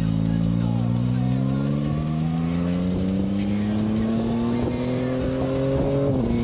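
Yamaha Tracer 9's three-cylinder engine pulling under load, its pitch rising steadily for several seconds, then dropping sharply near the end as it shifts up a gear before climbing again.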